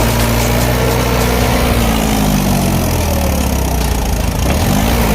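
Mahindra 475 tractor's diesel engine running hard under load as the tractor works to climb out of deep mud. Its pitch sags about two seconds in and climbs again near the end.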